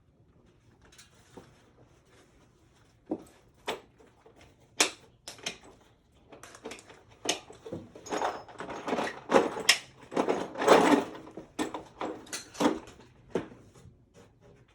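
Irregular knocks, clanks and clatter of tools and parts being handled during furnace installation work. The strikes start sparse a few seconds in and grow into a dense run of rattling and banging before tapering off near the end.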